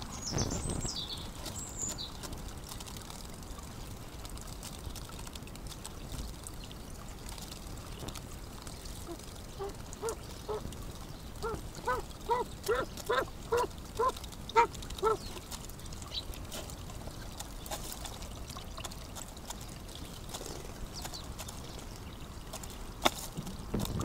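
A bird gives a run of about a dozen short, low calls, roughly two a second, starting about ten seconds in. A small bird's high chirps come at the very start.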